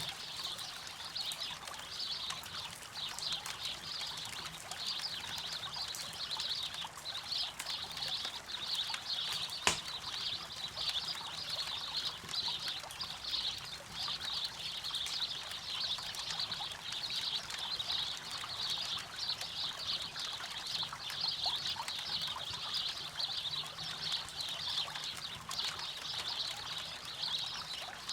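River water running, under dense, continuous high-pitched chirping, with a single sharp pop, likely from the campfire, about ten seconds in.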